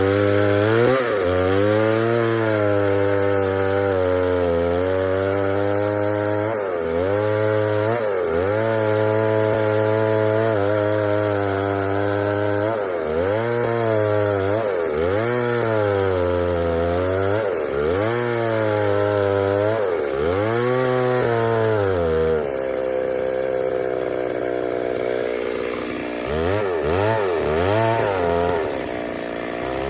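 Two-stroke chainsaw cutting wood, its engine note sagging under load and climbing back again every second or two as the chain bites and eases. About three-quarters of the way through it holds a steady lower note for a few seconds, then the quick dips start again.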